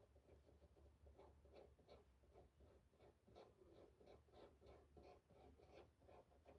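Faint, quick scratchy rubbing of a small domed stencil brush working paint, about three strokes a second.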